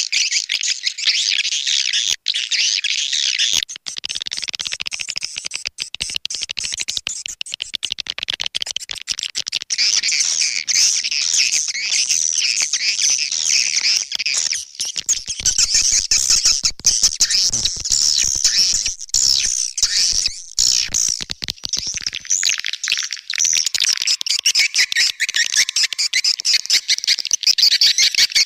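Swiftlet lure call: a dense, high-pitched twittering of many rapid chirps running on with only brief breaks.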